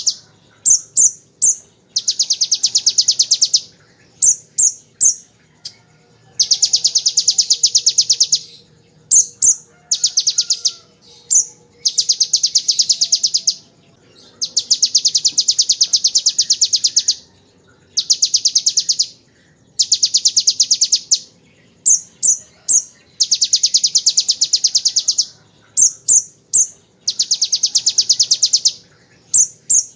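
Brown-throated sunbird (kolibri ninja) singing: long, very fast rattling trills of one to three seconds each, in imitation of the bar-winged prinia's machine-gun trill, alternating with short, sharp, very high notes.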